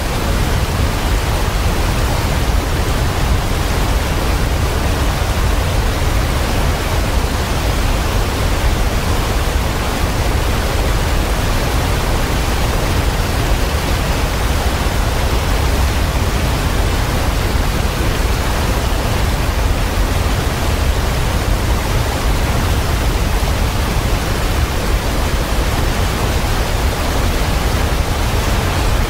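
Waterfall pouring: a loud, steady rush of falling water with a deep rumble underneath.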